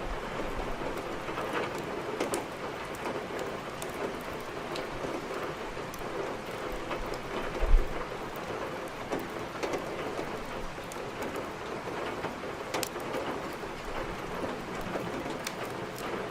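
Steady heavy rain with scattered sharp crackles of a wood fire burning in a fireplace. A brief low thump sounds about eight seconds in.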